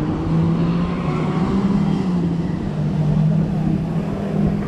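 Jet ski engine running under way, a steady drone whose pitch wavers slightly up and down with the throttle.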